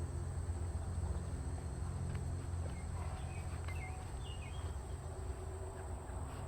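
Outdoor summer ambience: a steady low hum under a steady high insect drone, with a few short bird chirps in the middle.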